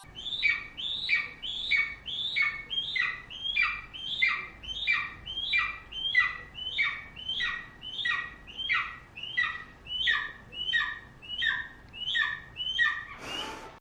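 A bird-like squawking call repeated evenly about twice a second. Each call is a quick squeal that falls in pitch, and the series stops abruptly near the end.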